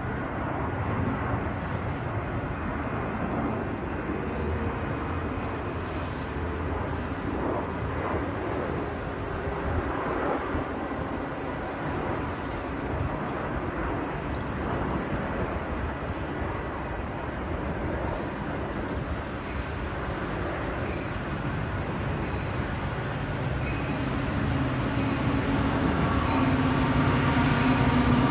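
Metra commuter train approaching: a steady rumble that grows louder over the last few seconds as the train draws near.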